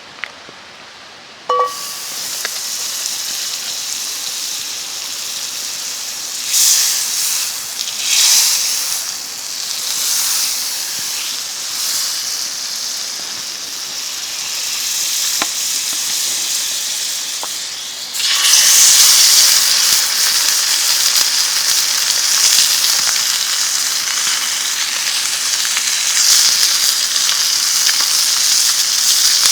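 Food sizzling in a hot pan. The frying starts suddenly about two seconds in, just after a short metallic clink, and gets louder about eighteen seconds in, as if more food hits the pan.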